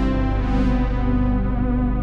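Sequential Prophet 6 analog polyphonic synthesizer playing sustained chords, with a filter opening briefly about half a second in and then closing so the tone grows darker.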